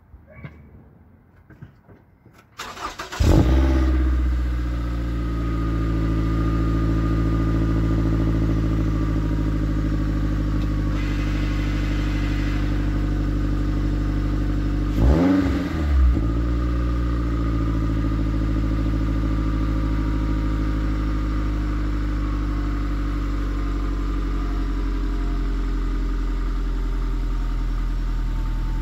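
2015 Scion tC's 2.5-litre four-cylinder engine on its stock exhaust, starting about three seconds in with a brief flare, then settling to a steady idle. A quick rev about halfway through, then it idles on.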